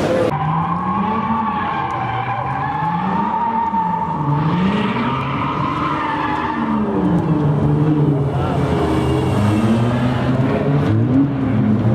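A drifting car: its engine revs rise and fall again and again while the tires squeal steadily.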